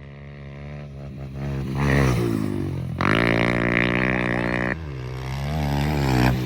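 Pit bike engine revving hard, growing louder as it comes in and climbing in pitch, held at high revs for a couple of seconds. The throttle drops off sharply just before 5 s, then revs build again near the end.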